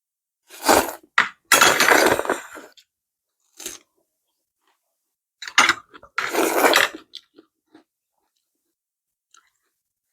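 Close-miked eating: two loud bouts of crunching bites and chewing, about half a second in and again about five and a half seconds in, with a short crunch between.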